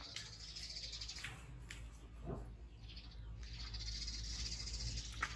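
Faint high chirping of birds in the background, with a few light clicks and one sharper click near the end.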